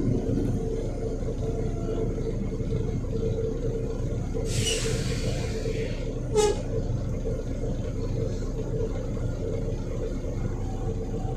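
Volvo B7RLE bus's diesel engine running steadily. About four and a half seconds in there is a hiss of compressed air lasting over a second, then a brief sharp knock with a short ringing tone.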